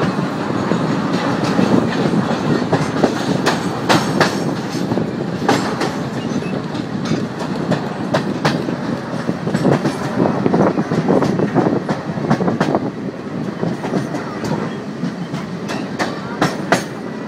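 A passenger train running, heard from on board: a steady rumble with the wheels clattering and clicking irregularly over the rail joints.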